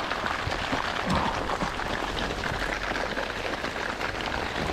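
Steady rain pattering, a dense crackle of drops on a plastic tarp.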